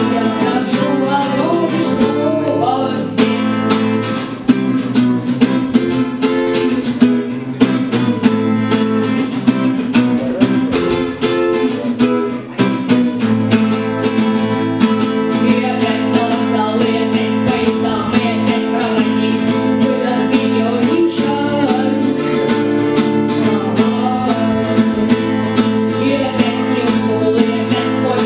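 Acoustic guitars strummed in a steady, driving rhythm, with a voice singing over them.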